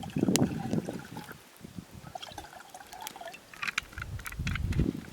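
Liquid trickling and pouring unevenly, with a few light clinks near the end.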